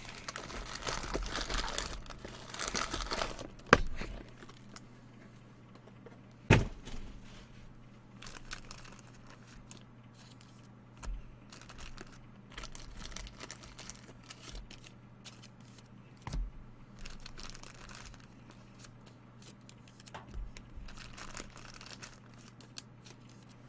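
Trading-card pack wrappers being torn and crinkled, with cards handled and a few sharp knocks and taps, the loudest about six and a half seconds in; a faint steady hum runs underneath.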